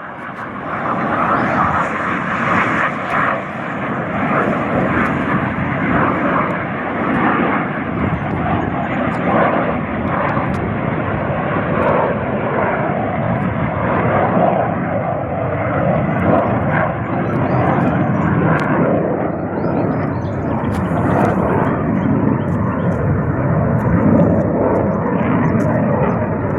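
Loud, steady jet noise from a pair of BAE Hawk jet trainers departing, their Adour turbofan engines at take-off power.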